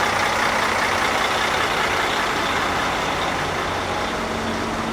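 Steady drone of an engine running at idle, with a constant low hum under an even hiss.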